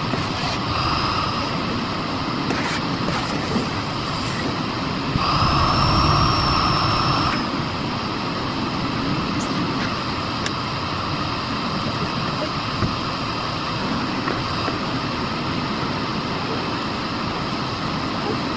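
Miele Blizzard CX1 Cat & Dog PowerLine bagless cylinder vacuum cleaner running steadily. About five seconds in it gets louder for about two seconds, with a high whine that rises and holds before dropping back. A shorter whine comes about a second in.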